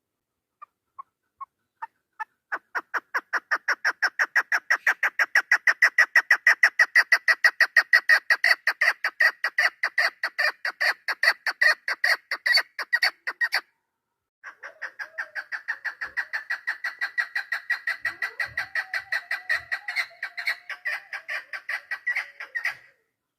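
Female chukar partridge calling a rapid series of clucking notes, about five a second. It starts with a few slow notes and quickly speeds up into a long steady run. The run breaks off briefly about 14 seconds in, then starts again.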